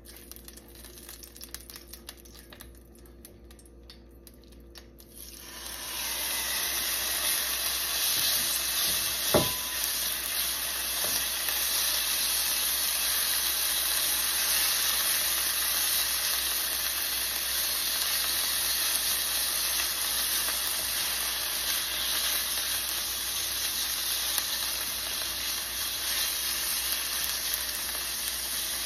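Thin beef slices sizzling in hot oil in a frying pan as they are stirred with a silicone spatula. The sizzle starts abruptly about five seconds in, when the meat goes into the pan, and runs on as a loud, steady hiss. A single sharp tap sounds about nine seconds in.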